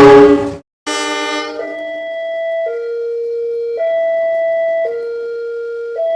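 A loud horn blast that cuts off about half a second in, then, after a brief gap, another horn sound that settles into a two-tone hi-lo pattern, switching pitch about once a second.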